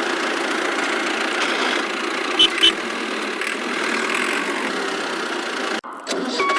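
Small engine of a miniature model construction machine running steadily, with two short clicks a little over two seconds in. The sound cuts off abruptly near the end, and a repeating reversing beep starts just after.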